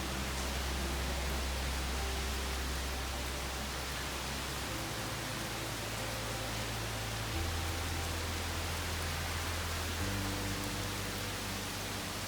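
Steady hiss of hurricane rain and wind, with soft background music under it: low held chords that change about every two and a half seconds.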